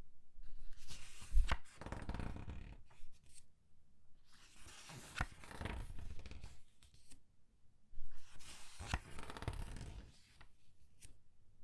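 Pages of thin newsprint comic books being turned and squeezed by hand. There are three page turns about three to four seconds apart, each a rustle with a crisp paper crackle in the middle.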